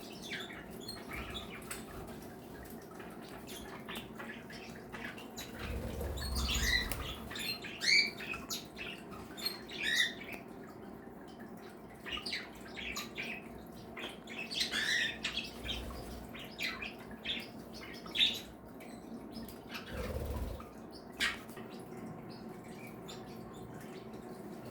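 A mixed flock of pet cage birds, budgies, cockatiels and Bourke's parakeets among them, chirping and calling in short, scattered notes over a steady low hum. A few soft low thumps come at intervals.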